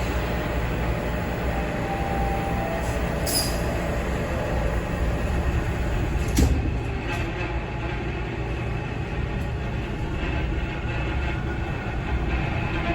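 A TTC Bombardier T1 subway car in motion, heard from inside: steady running noise from wheels and motors, broken by a few sharp knocks. An odd rattling sets in a little past halfway.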